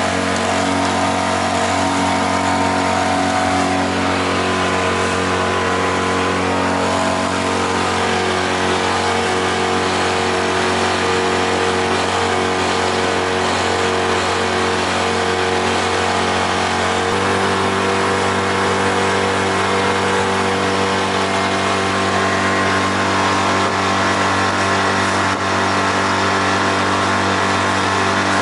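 Freshly overhauled outboard motor running steadily with the boat under way, its note shifting slightly in pitch about 17 seconds in.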